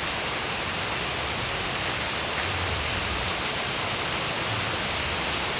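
Steady rain falling, a dense even hiss with a few faint drop ticks.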